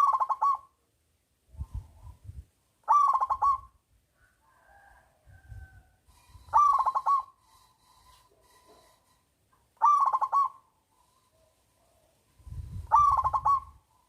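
Zebra dove (perkutut) singing: five short cooing phrases about three seconds apart, each a quick run of rattling notes.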